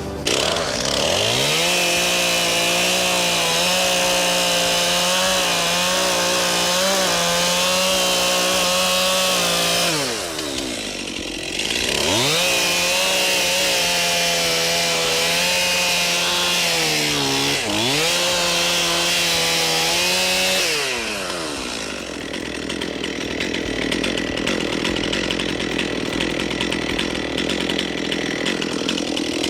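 Gasoline chainsaw engine revving up about half a second in and running at high speed, falling off near ten seconds and again near twenty-one seconds, and revving back up in between.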